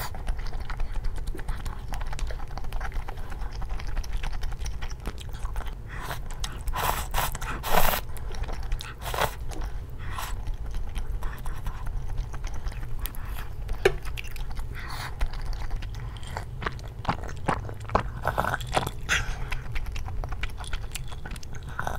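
Close-up eating sounds: chewing and biting of mala rosé braised chicken and glass noodles, with many short sharp clicks and crackles, the loudest about eight seconds in.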